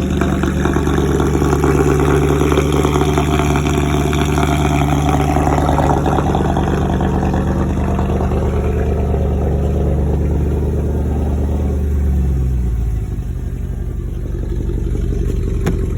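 Straight-piped Mercedes C63 AMG 6.2-litre V8 exhaust running at a high cold-start idle. About twelve seconds in the idle drops to a lower, steady speed.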